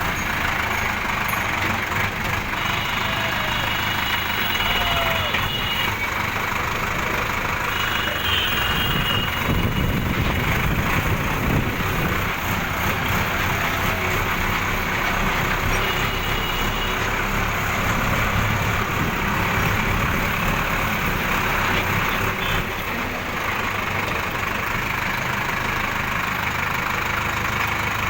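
A heavy vehicle engine running steadily, with a few faint high tones over it.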